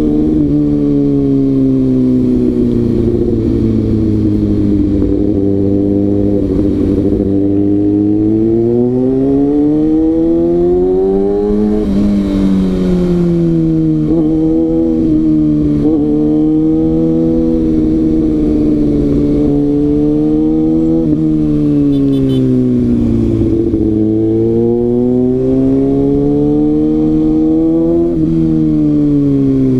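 Kawasaki ZX-6R inline-four engine heard from on board while riding, its pitch climbing to a peak about twelve seconds in, dropping, and rising and falling again as the throttle is worked.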